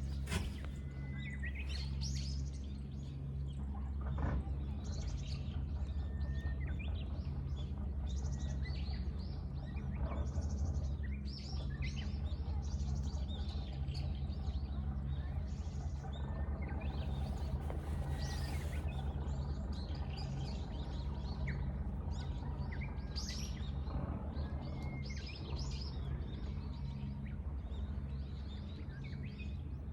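Many wild birds chirping and calling, short, varied calls overlapping throughout, over a steady low background hum.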